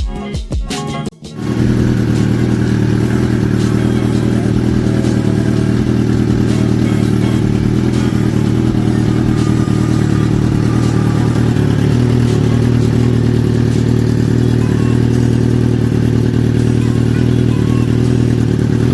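Suzuki GSX-R1000 K8's inline-four engine running steadily at an even speed, with no revving. Background music cuts off about a second in, just before the engine sound.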